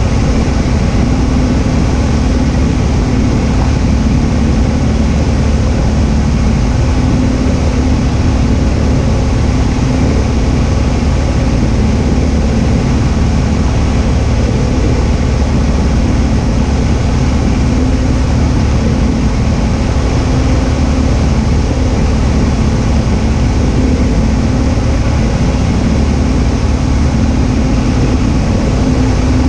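Cessna 172H's six-cylinder Continental O-300 engine and propeller droning steadily in flight, a constant low hum that does not change.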